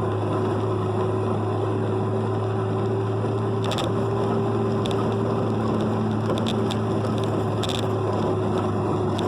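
Steady drone of a vehicle travelling on the road, a low engine hum under an even rushing noise, with a few brief hisses now and then.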